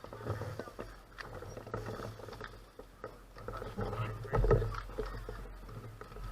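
Gravel bike tyres rolling and crunching over a gravel road, with many small irregular clicks and a low rumble of wind on the microphone; a louder thump comes about four and a half seconds in.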